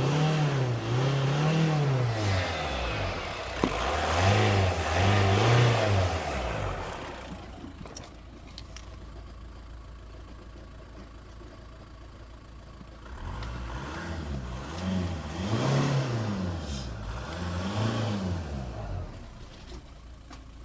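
Skoda Octavia 1.9 TDI four-cylinder diesel engine (BKC) being revved in short blips, settling to a steady idle for several seconds in the middle, then blipped again several times before dropping back to idle near the end.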